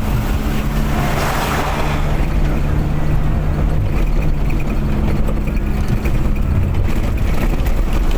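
Car driving on the road: a steady engine hum under road and wind noise, with no change in pace.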